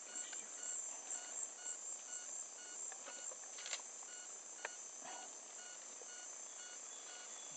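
Rainforest insects trilling steadily at a high pitch, with a faint short beeping call repeating at even intervals and a few soft clicks.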